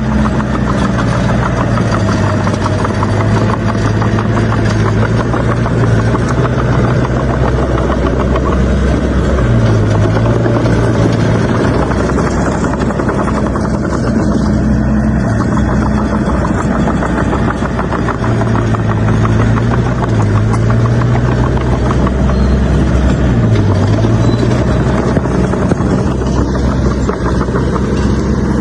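A bulldozer's diesel engine running steadily and loudly while working, its note dipping in pitch and recovering several times.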